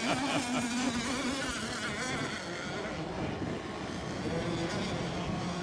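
Several radio-controlled racing boats' small motors buzzing together at high revs, their pitches wavering and shifting against each other as the boats run the course.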